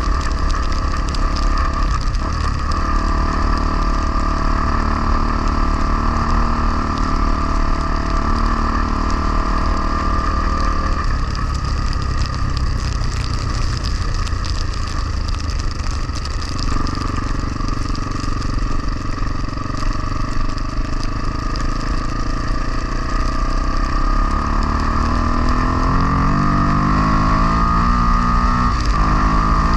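Honda XR250R single-cylinder four-stroke dirt bike engine running under way, its pitch shifting with throttle and gear and rising steadily as it accelerates in the last few seconds. Low wind rumble on the microphone underneath.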